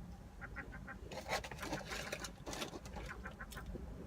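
Seagulls calling: a quick run of short repeated cries about half a second in, followed by more calls.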